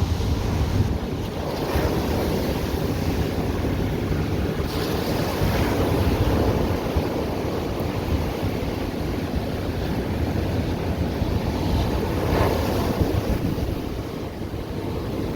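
Ocean surf breaking and washing up the beach, swelling louder twice, with a steady low rumble of wind on the microphone.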